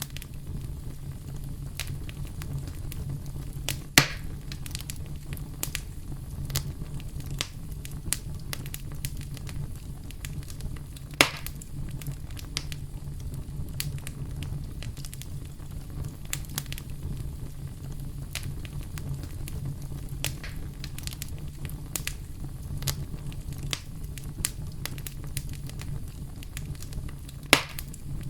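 Wood campfire crackling, with frequent small pops and three louder snaps spread through, over a steady deep rumble of brown noise.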